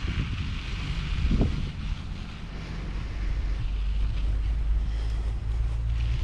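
Wind buffeting the microphone of a camera on a moving bicycle, a steady low rumble mixed with tyre and road noise, with a brief louder gust about a second and a half in.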